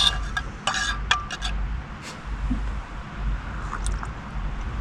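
Metal dishes or utensils clinking and scraping: a quick run of ringing clinks in the first second and a half, then a few scattered taps.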